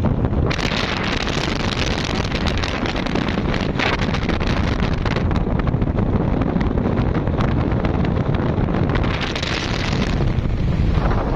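Speedboat under way: its engines running steadily at speed, with water rushing past the hull and heavy wind buffeting the microphone. The wind hiss eases about ten seconds in.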